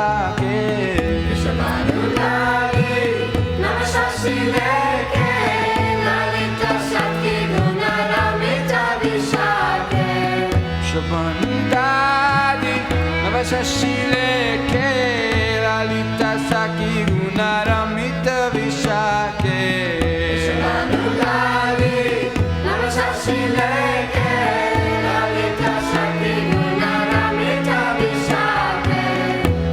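Devotional Vaishnava song: a sung melody with drum accompaniment, played continuously.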